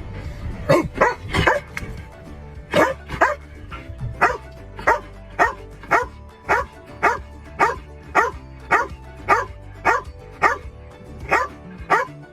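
A dog barking over and over in an even rhythm, about two barks a second, with a short pause about two seconds in.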